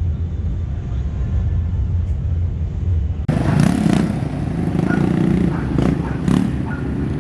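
A car engine running with a steady low exhaust rumble. About three seconds in, it cuts abruptly to louder car-meet engine noise with several short sharp bursts.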